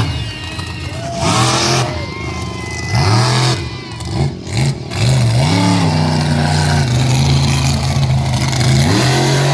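Monster truck engine revving, its pitch swooping up and down in several blips, then held high and fairly steady for a few seconds before rising once more near the end. Two short bursts of hiss come in the first few seconds.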